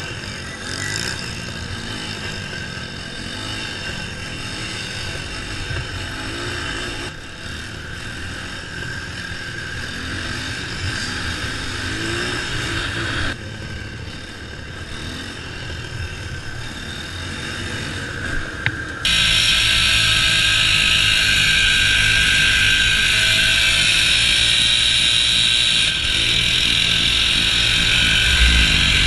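Mini bike engines revving up and down in quick rising and falling pitches, broken by abrupt cuts between clips. About two-thirds in, a louder steady rushing noise suddenly takes over.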